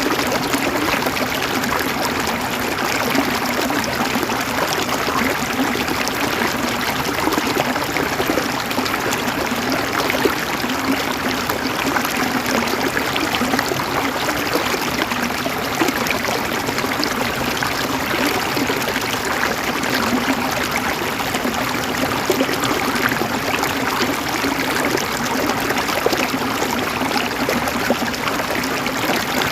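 River water flowing and gurgling in a steady, even rush, with small splashes flickering through it.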